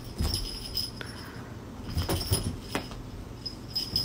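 A small bell jingling on and off while a cat chases and bats a small ball toy across a hardwood floor, with several light taps of paws and the ball.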